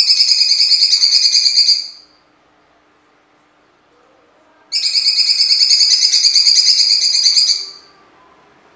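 Blue-winged leafbird (cucak cungkok) singing in two loud bursts of rapid, harsh, rattling song, with a pause of about three seconds between them. The first burst is under way at the start and stops about two seconds in; the second starts near the middle and lasts about three seconds.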